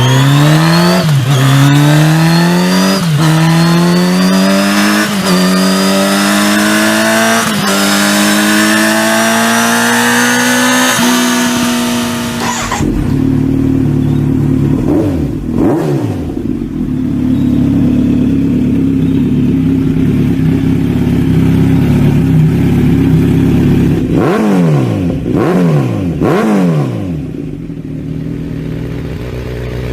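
Kawasaki Z900RS inline-four through an aftermarket exhaust, accelerating hard and shifting up through the gears, its pitch rising and dropping back at each of several upshifts. It then settles to a steadier, lower running note, with three quick throttle blips near the end.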